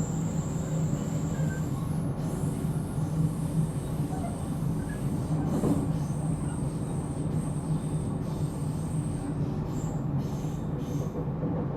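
Interior running sound of a JR Central 313 series 0-subseries electric train's motor car (MoHa 313-7): a steady low rumble and hum from the running gear, with a thin high-pitched squeal from the wheels that sounds for a few seconds at a time and stops about nine seconds in.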